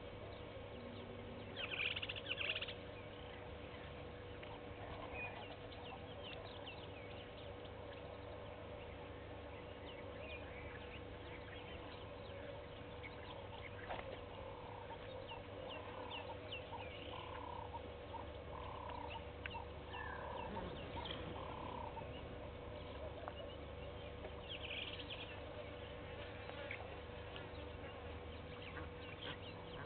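Wild birds calling and chirping, with a short burst of rapid chatter about two seconds in and a run of short, repeated calls in the middle, over a steady faint hum.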